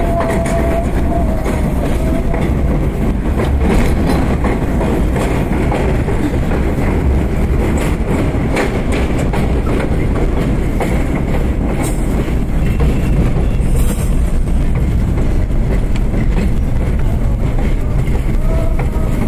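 R32 subway train running between stations, heard from the front car: a steady rumble with irregular wheel clicks over the rail joints, and a brief faint wheel squeal at the start and again near the end.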